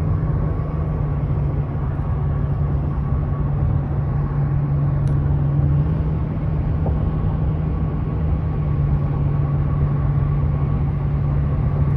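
Steady drone of a vehicle on the move: road and engine noise with a steady low hum.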